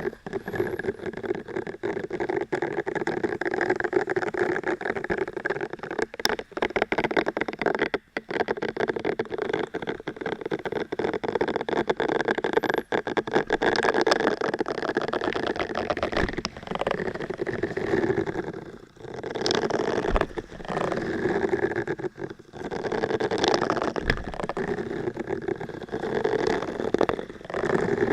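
Close-miked ASMR trigger sounds: dense, rapid scratching and rubbing right against the microphone, with a few short breaks.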